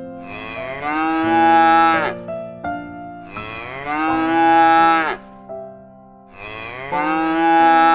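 Cow mooing three times, each moo about two seconds long and dropping off sharply at its end, over light background music.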